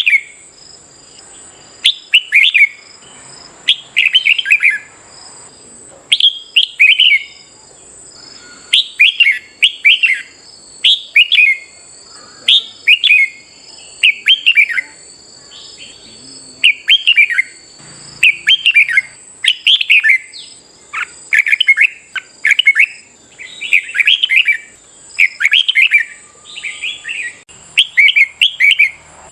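Red-whiskered bulbuls singing short, quick whistled phrases, one after another about every second, over a steady thin high-pitched whine.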